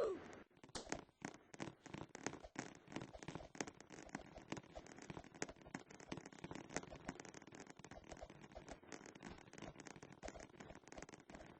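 Faint, irregular crackling: many small clicks and ticks following close on one another.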